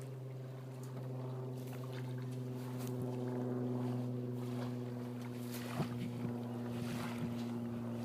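A small boat under way: a steady low hum with a few sustained tones, and light water noise along the hull.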